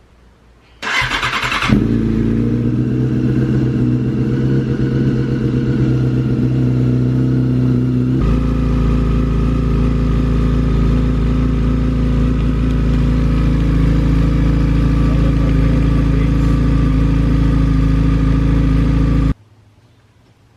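2005 Yamaha R6 inline-four engine cranked on the starter, catching after about a second, then idling steadily as the revs settle down. It is run after the oil change to fill the new oil filter. It stops abruptly near the end.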